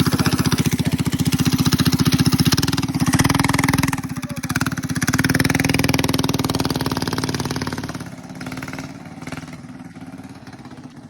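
Minibike engine running loud and close, its firing pulses steady, with a brief drop about four seconds in; it falls quieter after about eight seconds.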